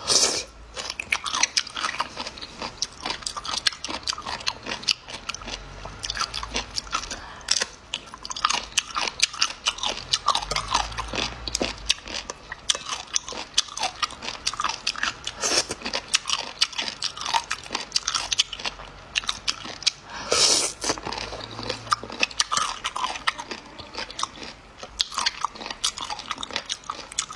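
Close-miked eating sounds of a person biting and chewing a crunchy, gelatinous food: rapid, irregular crisp crunches and wet mouth clicks, with a louder noisy burst about twenty seconds in.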